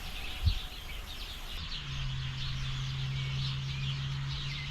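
Small birds chirping steadily in the background. There is a single thump about half a second in, and a steady low hum from about two seconds in.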